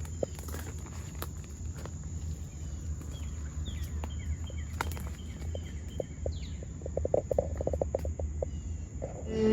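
Outdoor ambience: a steady high-pitched insect drone over a low rumble, with a few short chirps midway and a quick run of clicks near the end.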